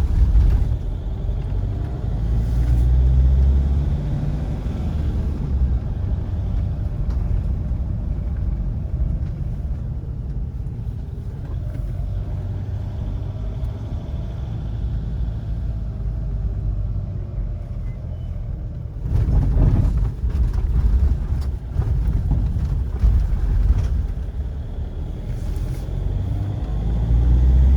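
Car's engine and road noise heard from inside the cabin while driving: a steady low rumble, with the engine note rising a few seconds in. The rumble turns rougher and louder for several seconds about two-thirds of the way through.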